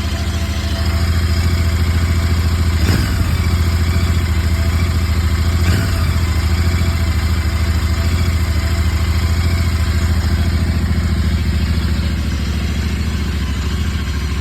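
Royal Enfield Interceptor 650's parallel-twin engine idling steadily after a cold start, with two brief blips of the throttle about three and six seconds in.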